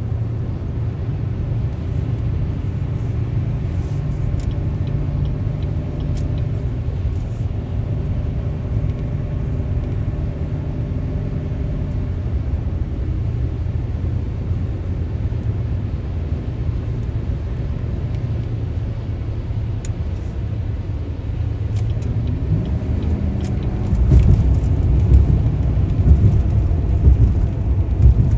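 Steady low rumble of a car driving, engine and tyre noise together, with faint engine tones above it. It gets louder and rougher near the end.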